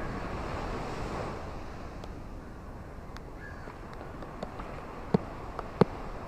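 Ocean surf washing ashore: a swell of wave noise in the first second or so that eases to a steadier, lower wash, with a few sharp clicks near the end.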